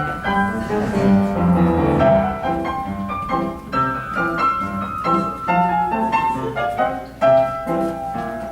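Piano playing a brisk run of separate notes over chords.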